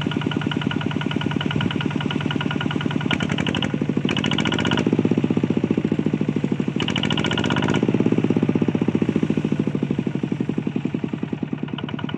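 Small tractor engine running with a rapid, even chugging beat, its pitch and loudness rising twice in the middle.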